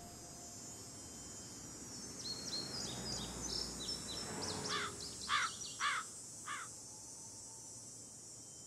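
A small bird chirping: a quick run of high chirps, then three louder, separate calls, over a steady background hiss.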